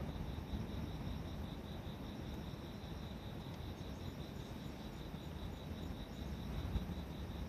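Insects chirping in a steady pulsing rhythm, about three pulses a second, over a low steady rumbling noise.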